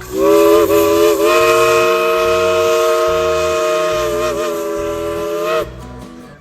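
Steam whistle of the Dollywood Express locomotive Cinderella, blown in one long blast of about five and a half seconds. It sounds as a chord of several tones, slides up in pitch as it opens, wavers briefly twice early on and once near the end, and cuts off sharply about a second before the end.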